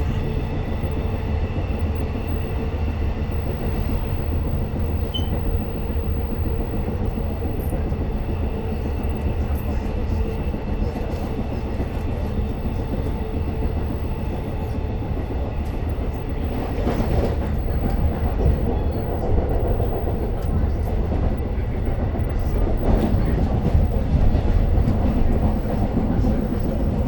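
Long Island Rail Road diesel push-pull commuter train running at speed, heard from inside a coach: a steady rumble of wheels on track with a faint whine, and louder clattering over the rails about two-thirds of the way in and again near the end.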